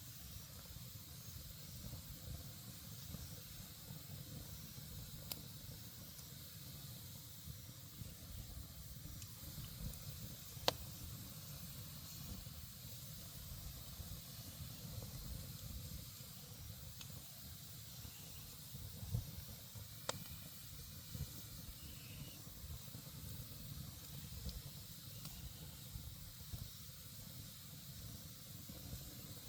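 Wood campfire burning with a soft steady hiss and low rumble, broken by a few sharp crackles, the loudest about ten seconds in.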